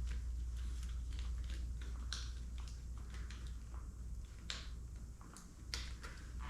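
Irregular light clicks and taps of wires and small connectors being handled, over a steady low hum.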